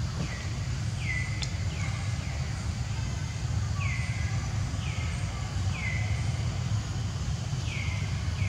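A bird repeating a short call that slides down in pitch, about once a second with a short pause, over a steady low rumble.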